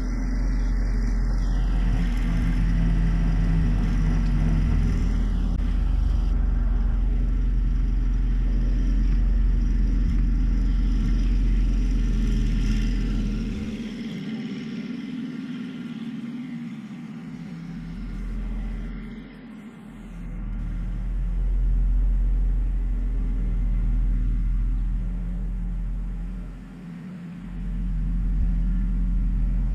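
John Deere 1025R subcompact tractor's three-cylinder diesel engine running with a steady low rumble. It drops away for a few seconds near the middle and dips briefly twice more later.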